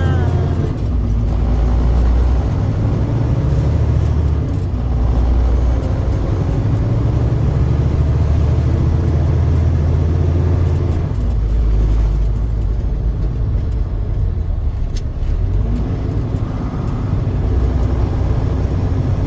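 Truck on the move: a steady low rumble of engine and road noise.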